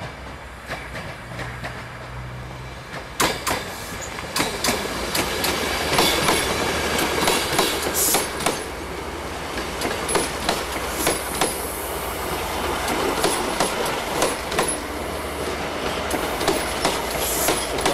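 A Wrexham & Shropshire passenger train of Mk3 coaches, led by a driving van trailer, running past along the platform. It grows louder about three seconds in, then a run of clicks follows as the wheels go over the rail joints, with high wheel squeal.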